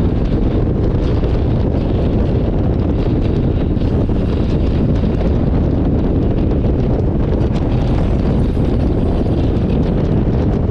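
Steady, loud wind noise buffeting the microphone of a motorcycle on the move, with a low road and engine rumble underneath.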